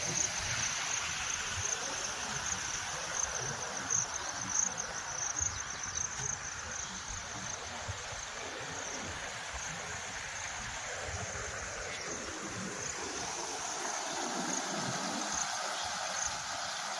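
Rushing floodwater with a steady high-pitched insect trill over it.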